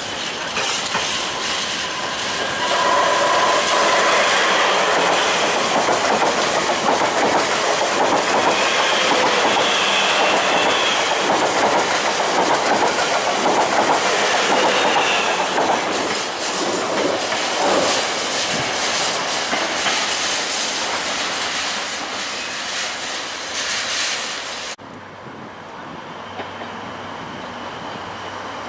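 A train running close by on the rails, its wheels clattering over the track, with thin metallic wheel-squeal tones in the first half. About 25 seconds in the sound drops suddenly to a much quieter rumble.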